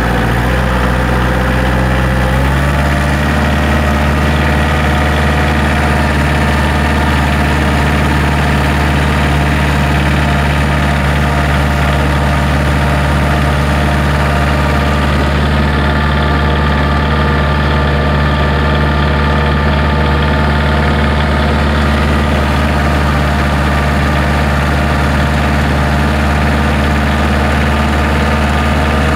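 Kioti DK40 compact tractor's diesel engine running steadily under load while towing a truck. The engine note shifts slightly about two seconds in, then holds.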